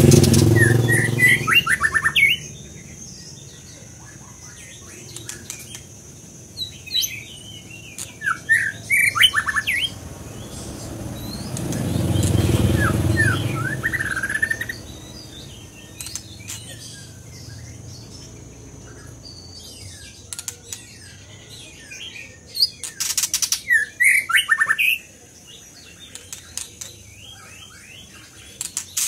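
A songbird singing in bursts of short, chirpy, fast-changing phrases, with pauses between them. A low rumble swells and fades around the middle.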